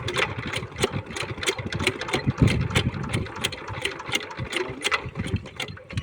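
Single-cylinder 5 hp diesel water-pump engine chugging slowly with an even knock about four times a second, during attempts to get it started.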